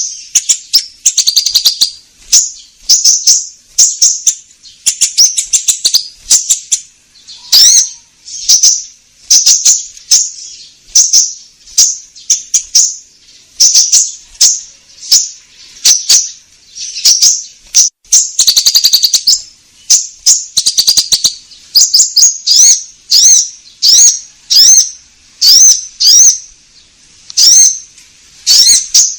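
Konin songbird singing without a break: loud, high chattering phrases of quick notes, repeated about once or twice a second.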